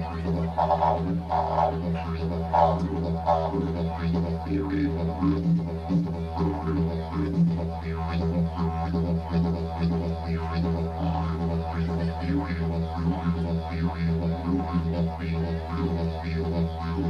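Didgeridoo played without a break: a steady low drone with rhythmic, pulsing overtones shifting above it.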